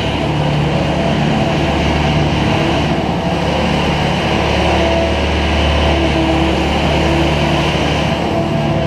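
Engine of a machine scraping manure along a barn alleyway, running steadily under load.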